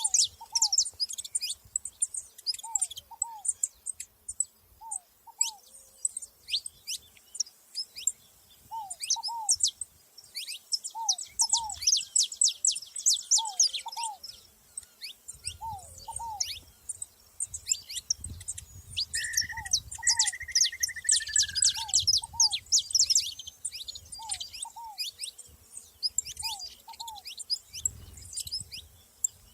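Saffron finches chirping busily, many quick high notes overlapping. A lower two-note call repeats every couple of seconds beneath them, and a short wavering whistle comes about two-thirds of the way through.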